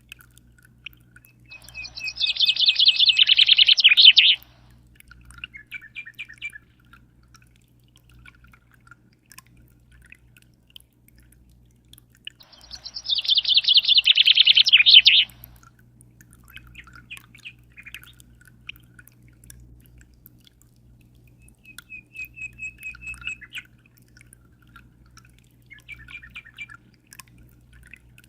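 A small songbird singing. It gives two loud, fast, high trills about ten seconds apart, each lasting nearly three seconds, with softer short chirps in between, over a low steady hum.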